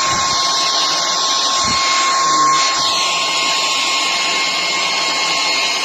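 Hoover HF3 cordless stick vacuum cleaner running steadily: a high motor whine over an even rush of air.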